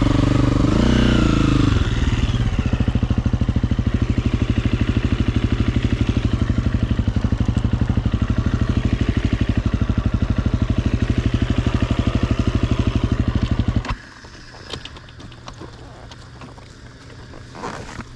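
Dirt bike engine running at a steady idle, then cutting off suddenly about fourteen seconds in. A few faint clicks and scrapes follow.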